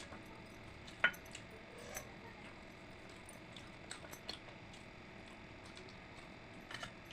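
Close-miked eating sounds of a meal of pakhala (rice in water): soft squishing of food over a low hiss, with a few sharp clicks, the loudest about a second in.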